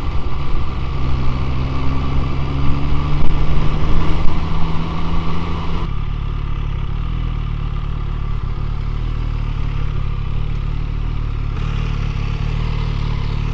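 MV Agusta Brutale 675's three-cylinder engine running on the move, its pitch shifting with the throttle. About six seconds in it changes abruptly to a steadier, lower running sound.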